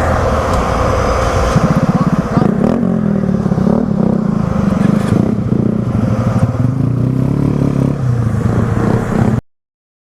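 Motorcycle engine running under way, its note rising about two seconds in and then holding fairly steady. The sound cuts off suddenly near the end.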